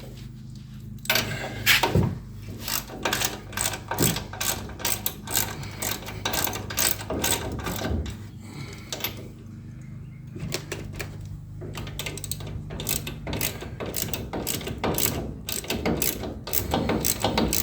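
Hand socket ratchet clicking in quick strokes as a bolt is run in and tightened, with a short pause about halfway through.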